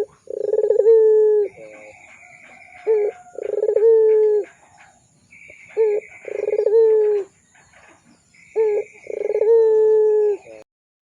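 Puter pelung dove cooing: four long, low coos in a row, each opened by a short note. Briefer, higher chirping notes come between them. The sound stops abruptly shortly before the end.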